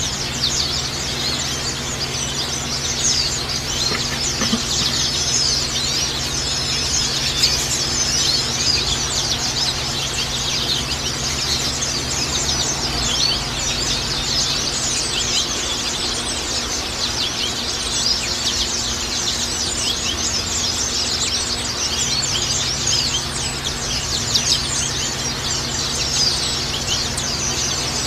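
A flock of white-eyes (pleci) chirping and twittering without a break, a dense chatter of short, quick, high calls. A steady low hum runs underneath.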